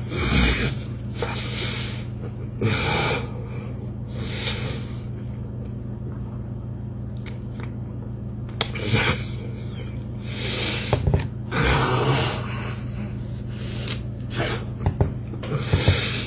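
Close-up eating noises: a person chewing a floured bread roll while breathing hard through the nose in short, hissy sniffs and snorts, about a dozen in all, with a quieter spell near the middle. A steady low hum runs underneath.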